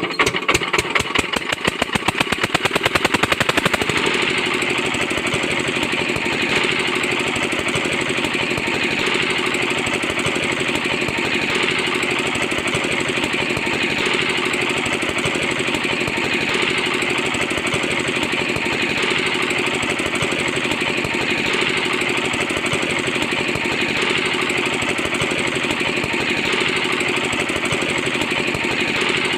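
A small engine or motor running steadily with a fast rattle. Its beat is heard as separate quick pulses over the first four seconds, then blurs into an even clatter.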